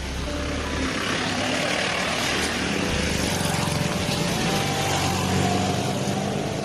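A motor vehicle's engine droning under a rushing hiss that swells through the middle and eases near the end.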